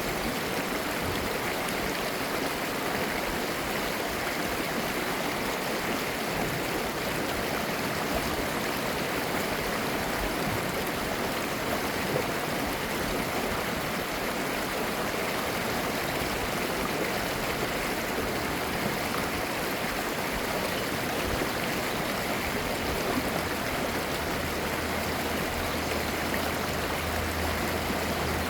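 Clear valley stream babbling over rocks in a steady, even rush of water. A low steady hum comes in underneath near the end.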